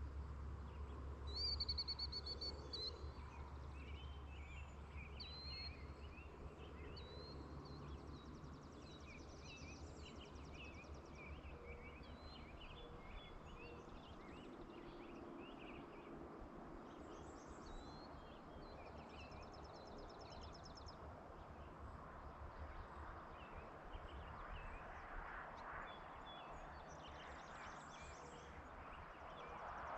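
Faint rural evening ambience: small birds chirp and give short fast trills on and off, over a low rumble that eases after the first half.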